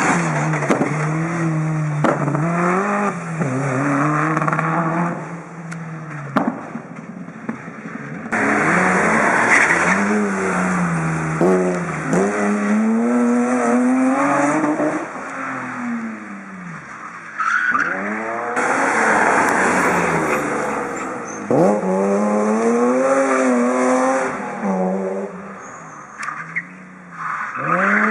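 Rally cars at full throttle in several passes, the engine pitch climbing and then dropping sharply at each gear change, with some tyre squeal.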